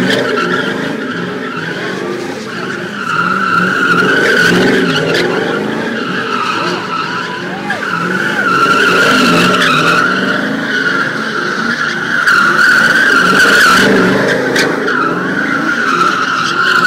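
Car tires squealing steadily through a burnout, with the engine running hard underneath. The screech swells louder about three seconds in and again near twelve seconds.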